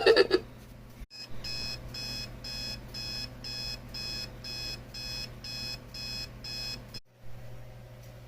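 Electronic alarm-style beeping: a short high beep repeated evenly about two and a half times a second for about five seconds, then cutting off suddenly, over a low steady hum.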